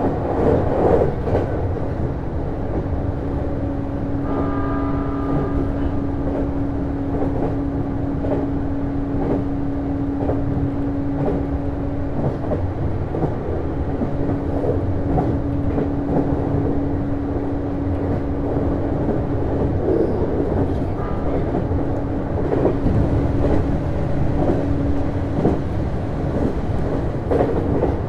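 Interior running sound of a JR East Series HB-E210 diesel-hybrid train under way: wheels clicking over rail joints on top of a steady rumble and a constant drone. A brief sound of several tones together comes about four seconds in.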